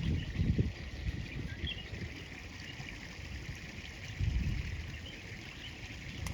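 Outdoor riverside ambience: wind gusting on the microphone as a low rumble that swells twice, over a steady faint hiss with scattered small high chirps.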